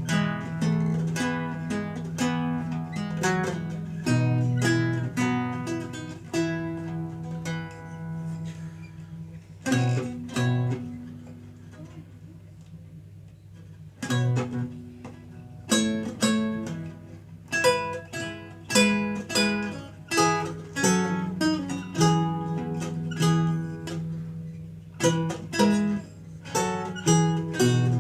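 Renaissance lute played solo: plucked single notes and chords in a steady flow. About ten seconds in, a chord is left ringing and dying away for a few seconds before the playing picks up again.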